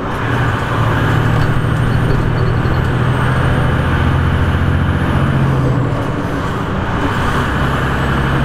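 Semi-truck's diesel engine running as the truck pulls away, a steady low drone.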